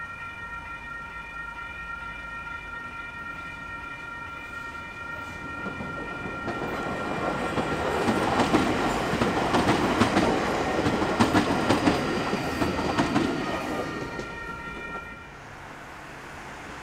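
Level crossing warning bells ringing steadily while a CAF-built AM-class electric multiple unit approaches and passes, its wheels clacking over the rail joints and the crossing. The train is loudest from about eight to thirteen seconds in, and the bells and train cut off near the end.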